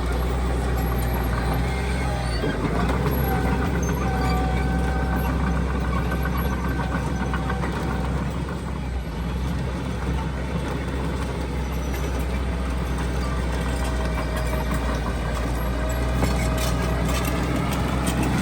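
Heavy diesel construction machinery running steadily: a deep engine drone with faint, steady whining tones above it.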